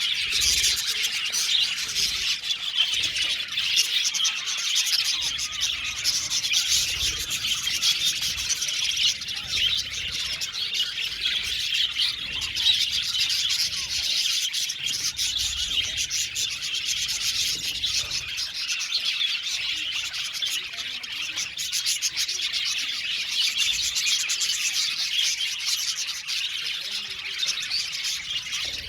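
A flock of budgerigars chirping and chattering together, many birds at once in a dense, continuous twitter.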